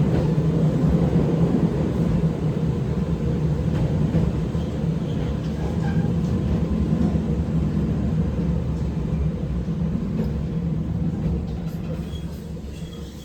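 Oigawa Railway 7200 series resistance-control electric train running, its traction motors and wheels giving a steady low hum with a held tone. The sound tapers off near the end as the train slows.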